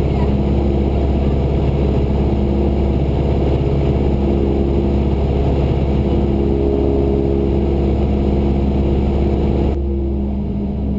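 Cessna 172's piston engine and propeller droning steadily in cruise, heard from inside the cabin. Near the end the sound dips slightly and turns duller.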